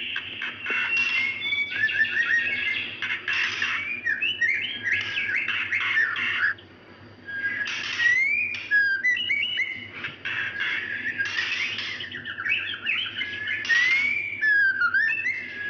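Female white-rumped shama (murai batu) calling in breeding condition, the call a female gives to summon a male: a rapid, continuous run of whistled notes gliding up and down, mixed with harsh rasping bursts. There is a short break about seven seconds in.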